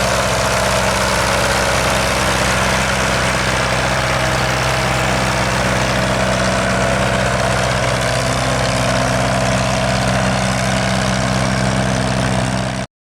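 Tractor diesel engine idling steadily close by. The sound cuts off abruptly near the end.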